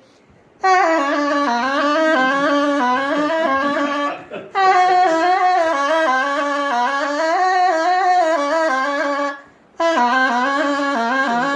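A single sustained, ornamented melodic line in the Iraqi tarab style, stepping between notes in three long phrases with brief breaks between them.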